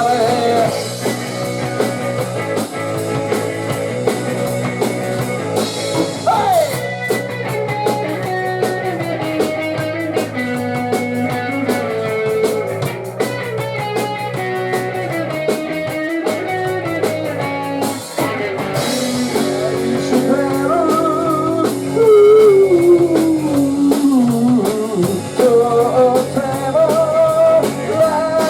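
Live rock band playing: electric guitar melody lines over bass and drums. Around two-thirds of the way in, the guitar slides down in a long falling glide and the music gets louder.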